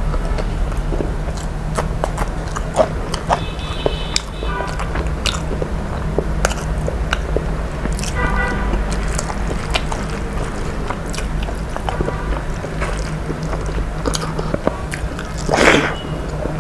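A person eating close to the microphone: biting and chewing with many small sharp mouth clicks over a steady low hum. A short, louder burst of noise comes near the end.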